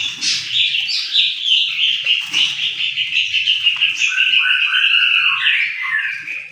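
Songbird singing a long, fast, chattering song of varied notes that runs into a rapid, even trill in the second half and dies away at the end.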